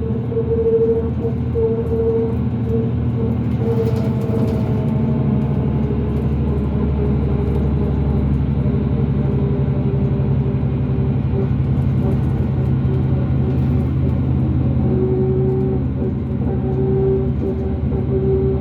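Cummins ISL diesel engine of a 2005 New Flyer D40LF transit bus running steadily under way, with a steady whine above the engine drone that drops slightly in pitch about fifteen seconds in.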